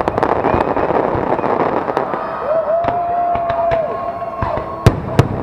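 Aerial fireworks crackling densely, with sharp bangs about the start and near the end and a held whistling tone in the middle.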